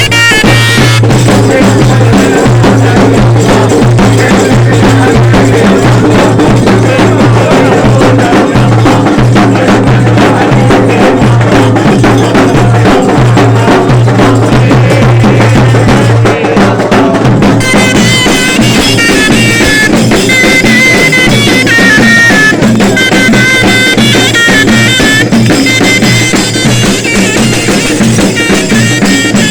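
Loud zaffa wedding-procession music: dense drumming over a steady droning wind instrument, with a reedy melody coming out more clearly after about 17 seconds.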